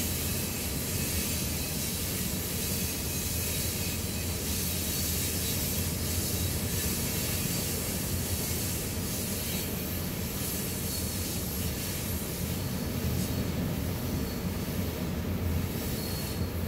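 Loaded coal hopper cars of a freight train rolling past: a steady rumble of steel wheels on the rails.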